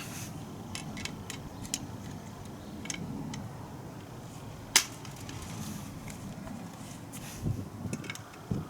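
Scattered light clicks and taps of tools and parts being handled during scooter repair work, with one sharp metallic knock about five seconds in.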